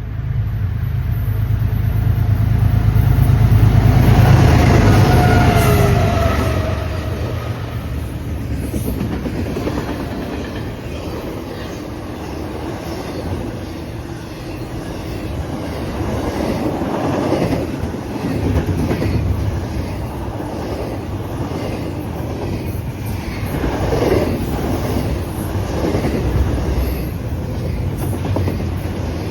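A CSX intermodal freight train passing at speed. The diesel locomotives' rumble is loudest in the first six seconds, with a tone that drops in pitch as they go by. The cars then roll past with a rhythmic clickety-clack of wheels over the rail joints.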